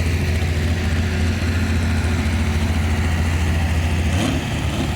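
Competition pulling truck's engine running at a steady, deep drone, which drops off about four seconds in.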